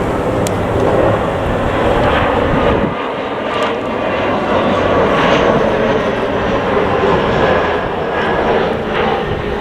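Jet airliner engines running loud and steady, a dense rushing noise with a faint high whine above it.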